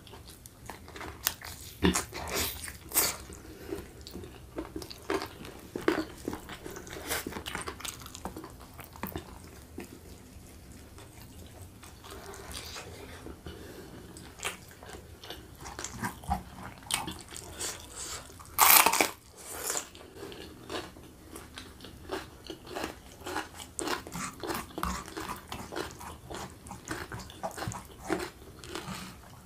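Close-miked eating: a man biting and chewing rendang chicken and rice with his mouth full, in many short, irregular smacks and clicks, with one louder burst about two-thirds of the way through.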